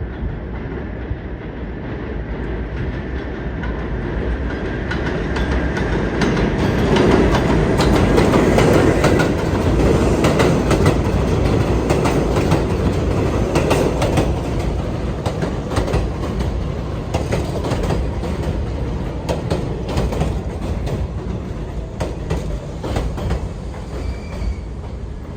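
New York City subway train running past on the track, growing louder over the first several seconds and then slowly easing off, with wheels clicking over the rail joints throughout.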